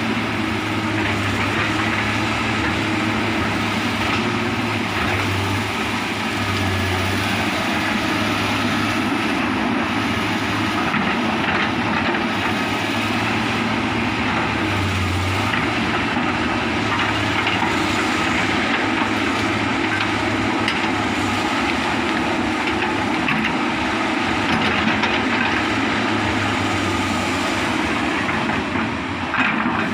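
Komatsu hydraulic excavator's diesel engine running steadily under working load, with scattered cracks and knocks of wood as it handles felled timber and brush.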